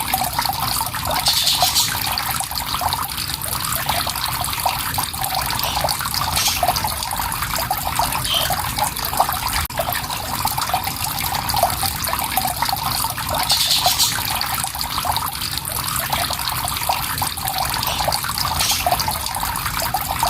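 Water flowing and trickling in a steady, even rush. A few brief high-pitched sounds cut through it, about four times.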